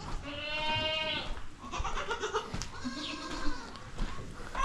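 Goats bleating: one long, wavering bleat, then a few shorter, lower calls.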